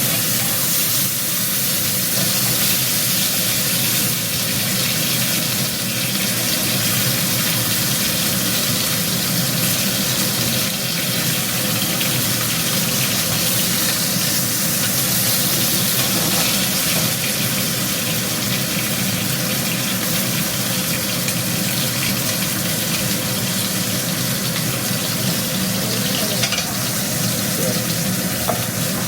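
Beef short ribs frying in a pan, a steady, dense sizzle throughout.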